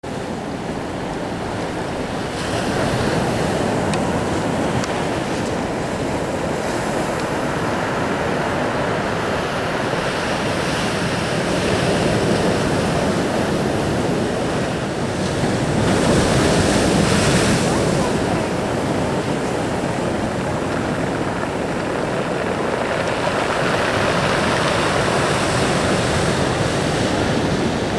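Heavy storm surf breaking and rushing up the beach, with wind buffeting the microphone. A continuous roar that swells several times as waves come in, loudest about two thirds of the way through.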